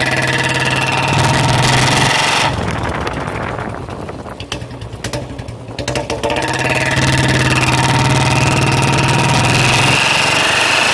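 Royal Enfield single-cylinder engine running through a bend pipe and free-flow silencer. It is held at raised revs for a couple of seconds, falls back to a rough idle, then is held up again at a steady pitch for about five seconds.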